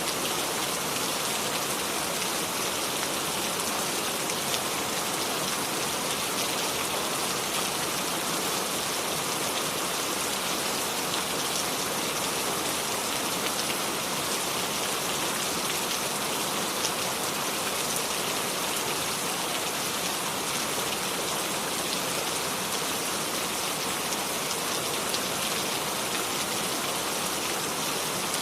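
Steady rain without thunder, an even hiss of falling rain with faint scattered drop ticks.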